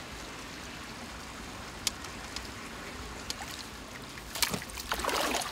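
Water swirling and lapping as a hooked carp turns at the surface, with a few faint ticks. The splashing grows louder near the end as the fish comes in close.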